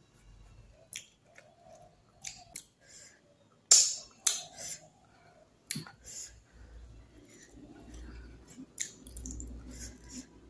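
Close-up eating sounds: chewing fish with scattered wet mouth smacks and clicks at irregular intervals, a few louder ones near the middle.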